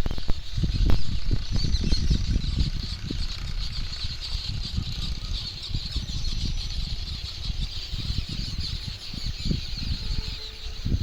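Dense morning chorus of many small birds chirping at once, a steady high chatter. Irregular low rumbling runs underneath and is the loudest part.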